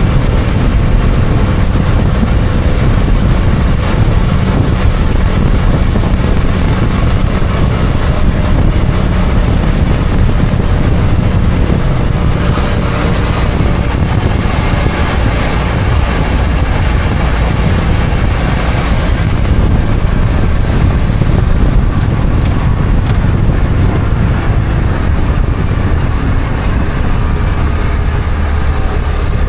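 BMW F800GS parallel-twin engine running steadily while the motorcycle is ridden, mixed with wind and road noise. The sound is loud and fairly even throughout.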